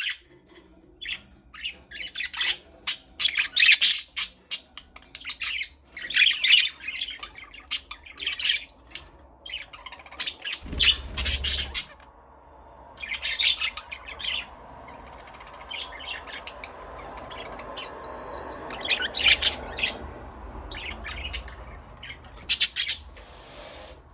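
Budgerigars chirping and squawking in quick, irregular clusters of short high-pitched calls.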